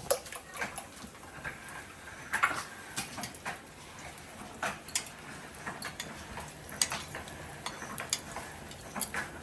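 Dishes and cutlery clinking and knocking irregularly, a sharp click or clatter every second or so, as food is handled and served.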